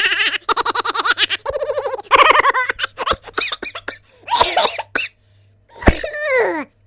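A string of short comedy sound effects one after another: rapid laughter-like pulses first, then a run of clicks, and near the end a sharp knock followed by a falling glide in pitch.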